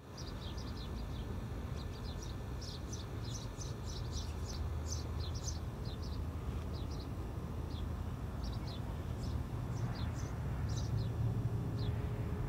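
Small birds chirping in quick, high twitters, busiest in the first half and sparser later, over a steady low background rumble.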